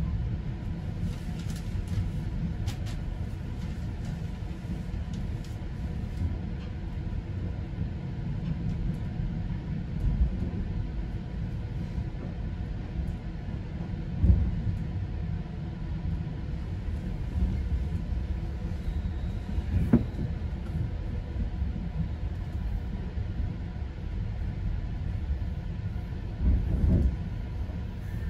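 Steady low rumble of a GO Transit commuter train heard from inside a passenger coach, with a few louder thumps about 10, 14, 20 and 27 seconds in.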